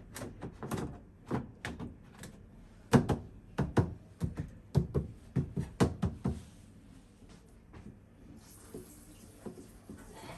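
Washing machine parts being handled and knocked into place by hand: an irregular run of sharp knocks and clacks, the loudest about three seconds in, which stop a little after six seconds. A faint steady hiss starts near the end.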